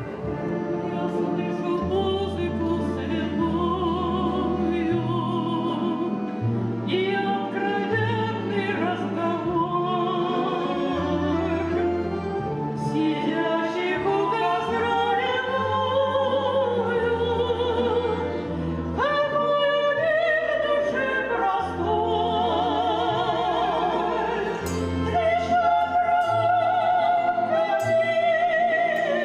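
Two women singing a Russian folk-style song in duet with wide vibrato, over instrumental accompaniment whose bass steps from note to note every second or two.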